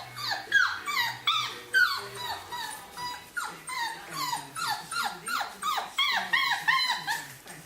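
Four-week-old bearded collie puppies whining and yelping: a rapid run of short, high cries that each slide downward in pitch, several overlapping at once.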